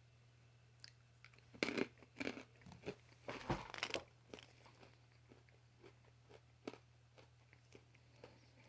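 Crunching and chewing a Koh Kae coconut-cream-coated peanut, a crisp coated shell. A few sharp crunches come from about one and a half to four seconds in, then fainter chewing.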